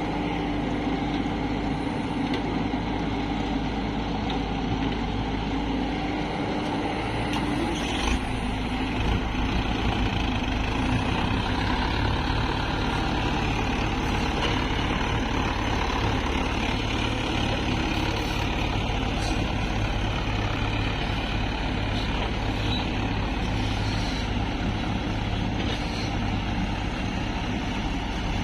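Diesel engines of an excavator and tractors running steadily while mud is loaded. A steady whine stops about eight seconds in, and the low engine note grows stronger from then on.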